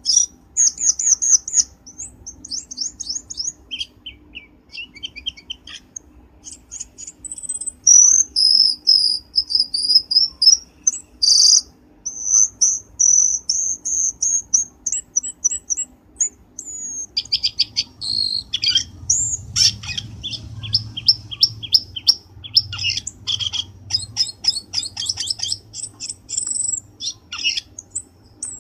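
Cucak keling birdsong played as a trapping lure: quick series of high chirps and rapid trills mixed with longer whistled phrases, following one another with hardly a pause, over a faint low hum.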